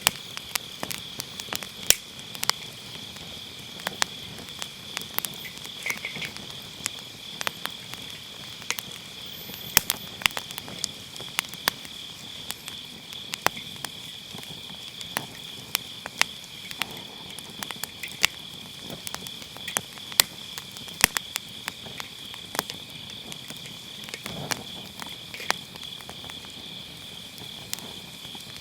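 Firewood burning in a round fire pit, crackling with frequent sharp, irregular pops and snaps. Behind it, autumn grass insects keep up a steady high chirring.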